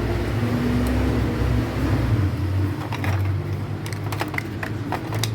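Small metal clicks and light knocks as a starter motor's brush holder and its screws are handled and fitted, starting about halfway in and coming several times a second near the end, over a steady low hum.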